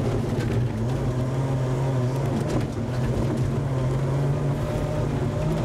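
Trabant rally car's engine heard from inside the cabin, running hard under load. It dips briefly about a second in and climbs in pitch near the end as the car accelerates.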